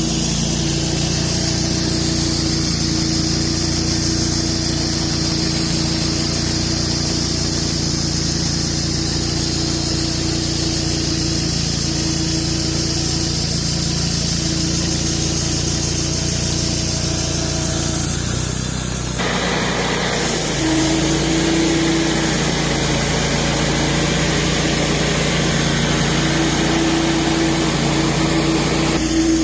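Sawmill engine running steadily as the saw cuts through a large poplar log. About two-thirds of the way in the sound changes abruptly and turns noisier and hissier, then runs on steadily.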